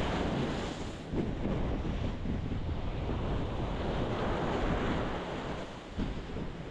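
Ocean waves breaking against a rocky shore: a continuous rushing wash that swells and eases, with wind buffeting the microphone.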